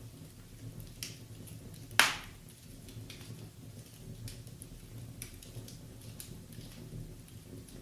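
Wood fire crackling in a fireplace: a few faint scattered ticks and one sharp, loud pop about two seconds in.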